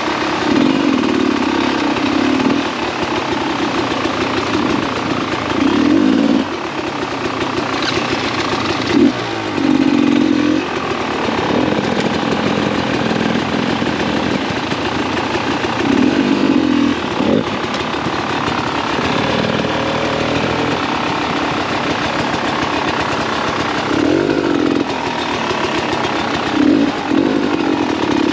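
Beta 300 RR two-stroke single-cylinder dirt bike engine running at low speed, with repeated short throttle bursts every few seconds that rise and fall.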